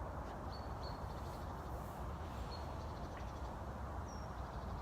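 Outdoor ambience: a steady low rumbling background noise with a few faint, short, high bird chirps.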